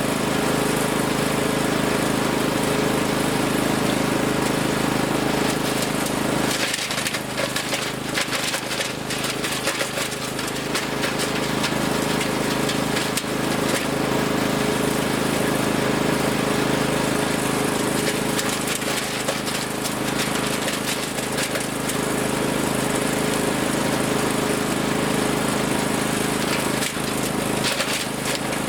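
Wood chipper's engine running steadily; about six and a half seconds in, branches are fed in and it chews them with a dense, ragged cracking and knocking over the engine hum.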